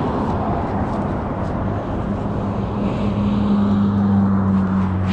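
Honda NX 200 single-cylinder motorcycle engine running steadily, its hum growing a little stronger about three and a half seconds in, with wind noise on the microphone.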